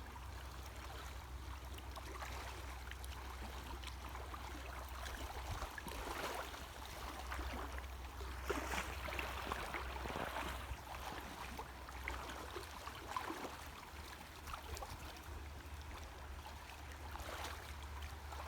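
Creek water sloshing and splashing as people wade upstream dragging a large seine net, busiest in the middle, over a steady low rumble.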